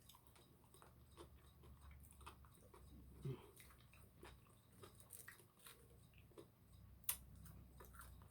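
Faint, close chewing and crunching of deep-fried food, a scatter of small crisp clicks, with one sharper click about seven seconds in.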